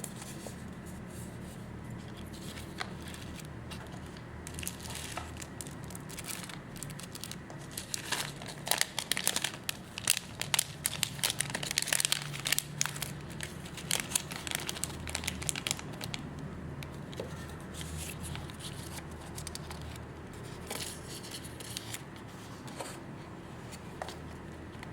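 Packaging material being crinkled and torn by hand while packing an order, in irregular crackles that are busiest and loudest in the middle, over a steady low background hum.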